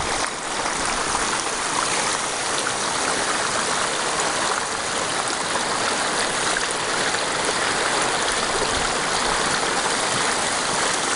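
Water rushing steadily through a sluice box as it is run for gold, a continuous even wash of flowing water.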